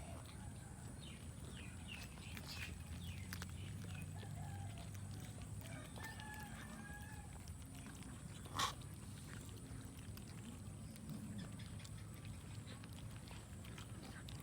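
Faint outdoor ambience with a low rumble and a few short animal calls in the first half, broken by a single sharp click a little past halfway.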